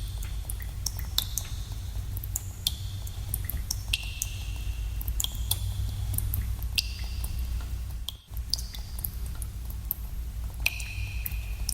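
Water drops dripping in a cave, falling at irregular intervals, several a second, each a sharp plink, many with a short high ringing tone, over a steady low rumble. The rumble briefly drops out about eight seconds in.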